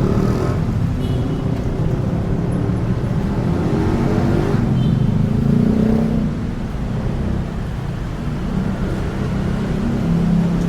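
Honda Chaly minibike's small single-cylinder four-stroke engine running under way, with road and wind noise. The engine pitch rises about four to six seconds in as it speeds up.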